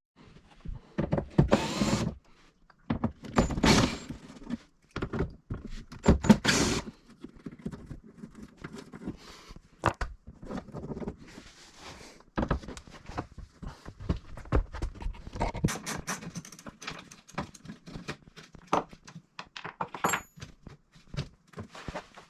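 Metal tools and screws clicking and clanking as 8mm screws are undone from underneath a car's bumper: a few louder rattling bursts in the first seven seconds, then a long run of sharp ticks and clicks.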